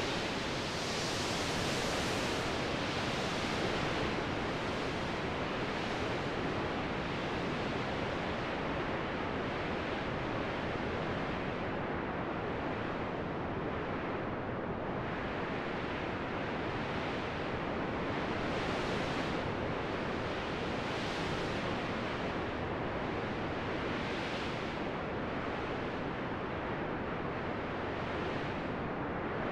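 Steady rushing wind noise, its hiss swelling and easing every two seconds or so.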